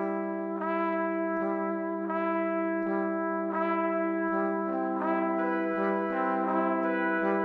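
Background music played on brass instruments: a low held note under chords struck again about every 0.7 seconds, growing fuller about two-thirds of the way through.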